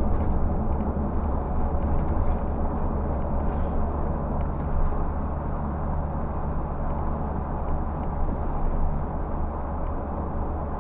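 Scania bus cruising at about 70 km/h, heard from inside: a steady engine drone with road noise.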